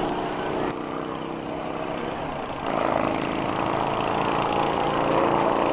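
Vehicle engines running steadily, getting louder again about two and a half seconds in.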